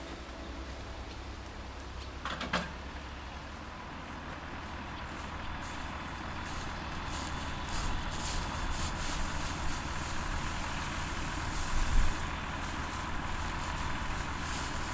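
Engine running steadily with a low rumble, with a faint steady whine joining it a few seconds in and a brief rattle about two and a half seconds in.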